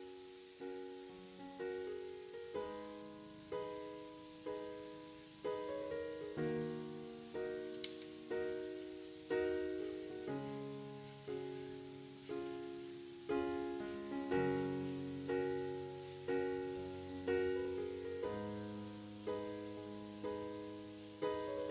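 Slow background piano music: chords and notes struck about once a second, each one dying away. There is a brief click about eight seconds in.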